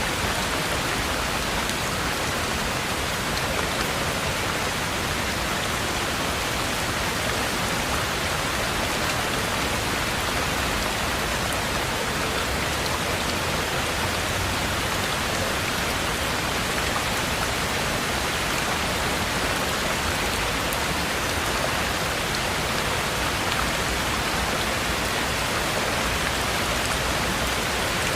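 Heavy rain falling in a steady, even downpour, with no let-up or change.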